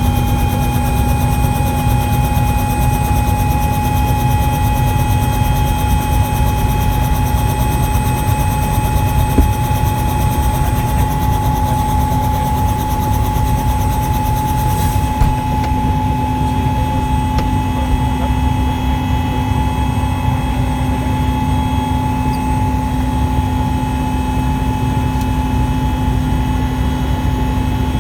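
Helicopter in flight: a steady, loud low rumble of the rotors with an even turbine whine over it.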